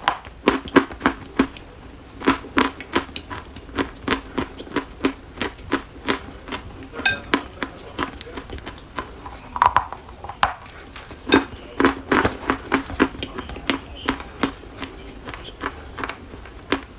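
Dry chalk crunching as it is bitten and chewed: an irregular run of sharp crunches, several a second.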